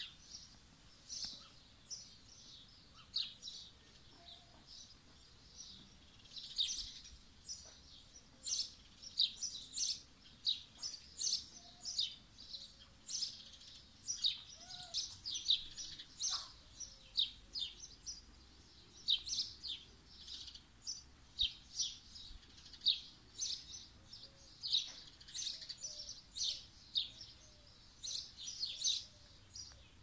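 Small birds chirping: a quick, steady run of short, high chirps, several a second.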